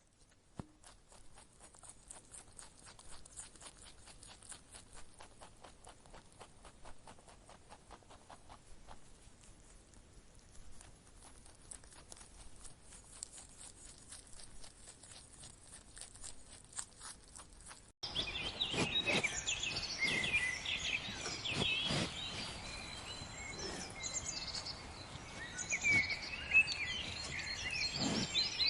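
A faint, dense patter of small clicks and crackles, then an abrupt cut about two-thirds of the way in to many small birds chirping at once, much louder.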